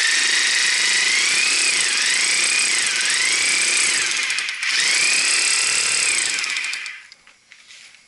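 Hammer drill boring a hole for a pipe-support anchor, run in two long pulls with a brief let-off about four and a half seconds in; its motor pitch wavers up and down as it loads in the hole. It stops near the end.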